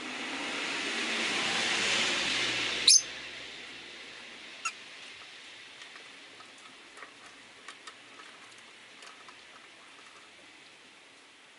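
A car passes on the wet street, its tyre hiss swelling and fading over the first three seconds. A rosy-faced lovebird gives one sharp, high chirp about three seconds in, the loudest sound, and a softer chirp under two seconds later. Light ticking and rain hiss follow.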